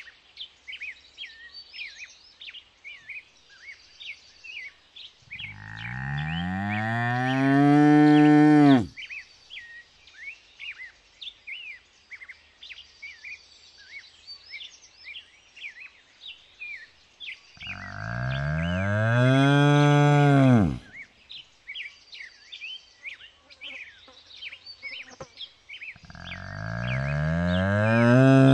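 Cow mooing three times, each moo a long call of about three seconds that grows louder and rises a little in pitch before breaking off; the third begins near the end. Small birds chirp throughout.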